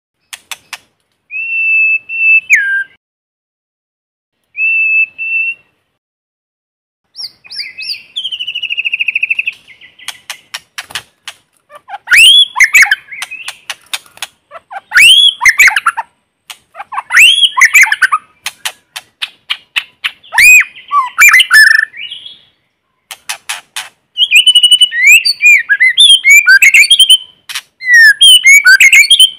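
White-rumped shama singing in separate phrases with clean silence between: sharp clicking notes and two held, level whistles at first, then from about seven seconds in louder, varied phrases of swooping whistles mixed with clicks, growing denser and busier near the end.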